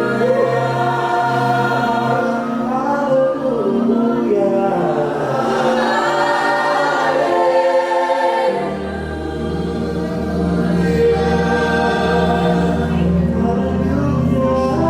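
Gospel worship music: voices singing together over sustained chords. A low bass note comes in a little past halfway.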